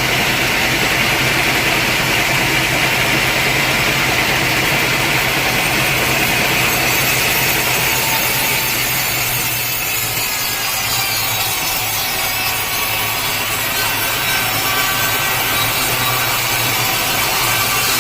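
Sawmill saw cutting through a large teak log, a continuous steady sawing sound over the hum of the mill's motor; about halfway through, the low part thins out and the sound turns higher.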